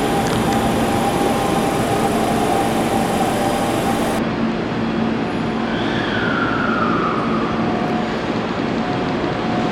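Electric commuter train running past the station platform, with steady rail and motor noise and a short falling whine about six seconds in.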